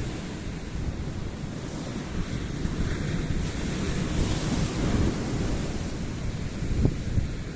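Ocean surf: waves breaking and washing in a continuous rush, with one wave swelling louder about halfway through. Wind buffets the microphone underneath.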